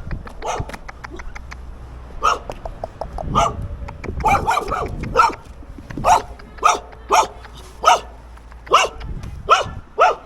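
A dog barking repeatedly: scattered barks at first, then a steady run of loud barks a little under a second apart from about four seconds in.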